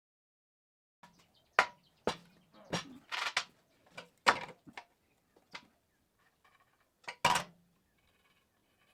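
Irregular metallic clanks and knocks of steel pieces being handled, starting about a second in: around nine sharp strikes over some six seconds, a few with a short ring.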